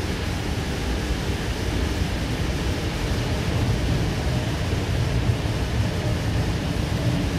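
Running noise of a Sydney Trains K-set double-deck electric train heard from inside the carriage: a steady low rumble with a hiss above it.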